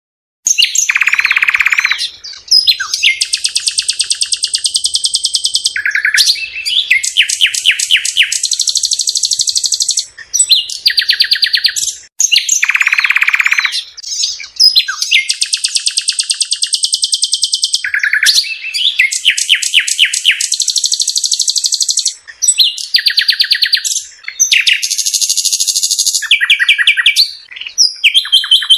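A songbird singing close up, a long, continuous song of rapid trills and repeated phrases that starts about half a second in.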